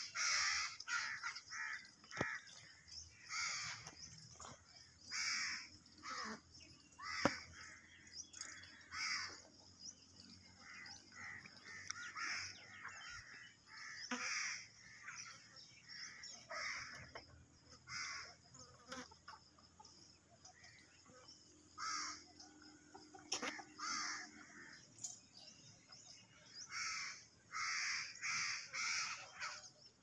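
Birds calling over and over, short calls coming in quick runs with brief gaps between them.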